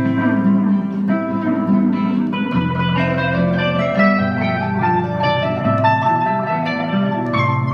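Instrumental music: plucked acoustic guitar playing a melody over a bass line, with no singing.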